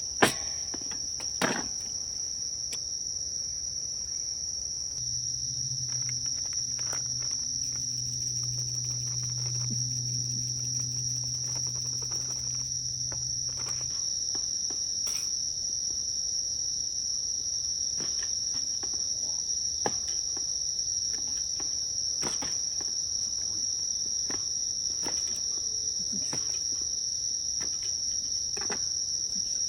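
Insects chirring, a steady high-pitched trill that never lets up, with a few sharp clicks and knocks from the camp, the loudest just after the start. A low hum sounds from about five to fourteen seconds in.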